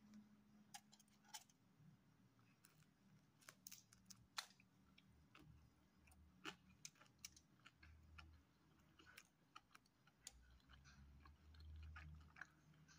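Faint chewing of pizza, with scattered small sharp mouth clicks and smacks over a low hum.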